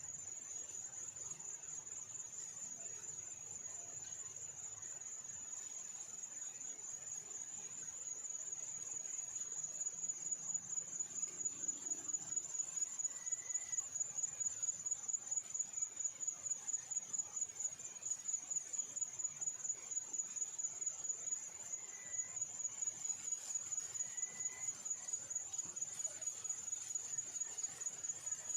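Insect trilling: a steady, high-pitched, continuous call that swells into a regular rapid pulsing about ten seconds in.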